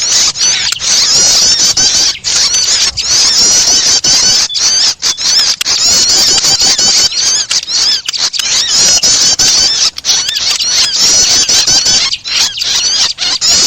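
Bird-lure recording ('suara pikat') for trapping kerbas birds: a rapid, unbroken stream of high-pitched chirps and twitters, dense and loud, with only short breaks.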